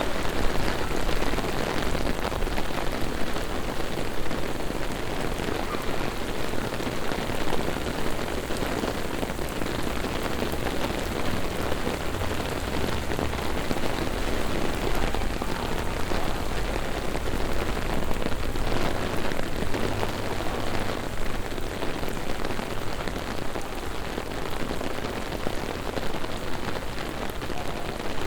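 Heavy rain falling on a city street: a steady, dense hiss with many small drop impacts close by.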